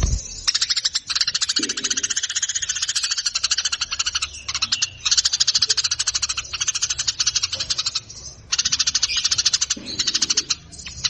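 A songbird's fast rattling trill, about a dozen clicking notes a second in long runs with short breaks between them. A short low thump at the very start.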